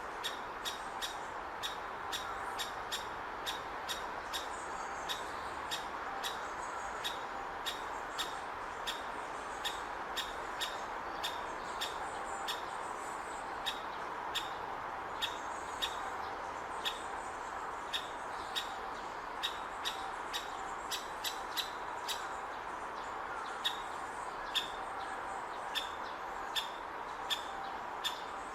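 A great spotted woodpecker nestling makes short, sharp calls from its nest hole, repeating about once or twice a second, as it waits to be fed. A steady background hiss runs underneath.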